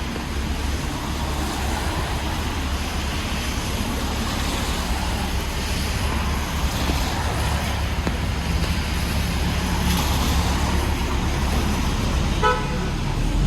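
City street traffic in the rain: steady hiss and rumble of cars passing on the wet road, with a short car horn toot near the end.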